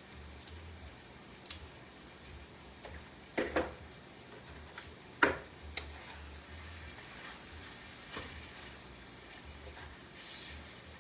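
Scattered light clicks and knocks of kitchen utensils and dishes being handled, the two loudest near the middle.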